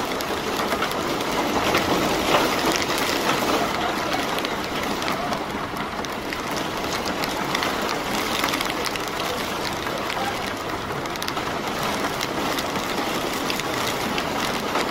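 Steady rain falling on an umbrella: a dense stream of small drop hits over an even hiss, with city traffic running underneath.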